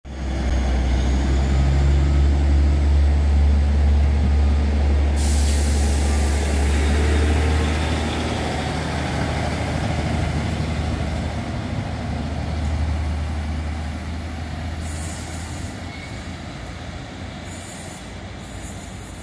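Transport for Wales passenger train running alongside the platform with a loud, deep drone. About five seconds in a steady hiss of air joins it, typical of air brakes, and the drone fades away near the end.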